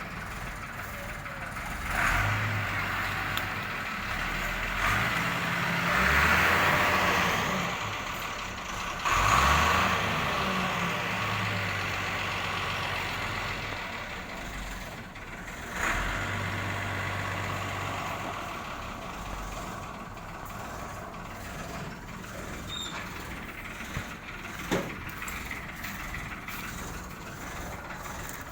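A large truck engine running with a steady low note, surging louder several times with bursts of hiss.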